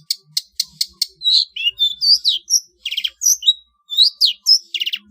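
Long-tailed shrike (cendet) singing. It opens with a quick run of sharp ticking notes, then breaks into a varied string of high chirps and down-slurred whistles, with two harsh buzzy notes.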